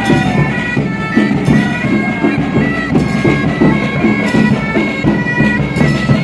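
Bagpipes playing a melody over a steady drone, with a regular beat underneath.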